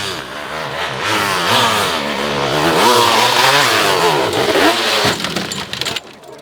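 Dirt bike engines revving hard, the pitch rising and falling again and again as the throttle is worked. The sound drops off suddenly about six seconds in.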